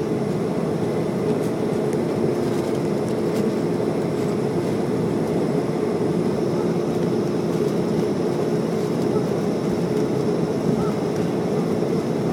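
Boeing 737 jet engines running: a steady drone with a constant hum, holding level without rising.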